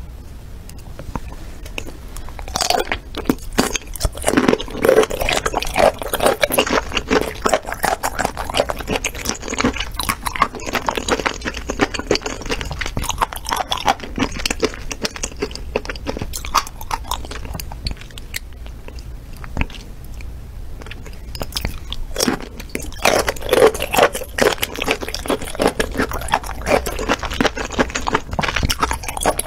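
Close-miked eating sounds of a person biting and chewing raw peeled shrimp: a dense run of small, wet clicks and chews that thins out for a few seconds past the middle, then picks up again.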